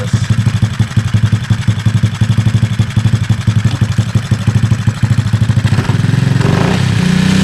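Kayo pit bike's small four-stroke single-cylinder engine running on its freshly overhauled and adjusted carburetor, idling with a fast, even pulse, then revved up to a higher, steady speed about six seconds in.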